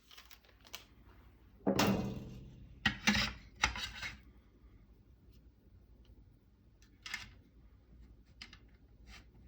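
Metal parts of a SCAR 15P being handled: a scraping clatter about two seconds in as the forend bridge slides into the receiver, then a few sharp metallic clicks and, later, light ticks.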